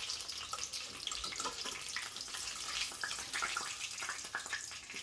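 Hot sunflower oil sizzling in a frying pan as breaded chicken shallow-fries: a steady hiss with many small crackles.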